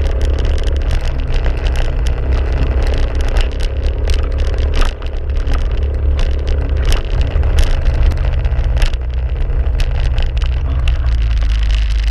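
A motor vehicle running: a loud, steady low rumble with scattered clicks and rattles.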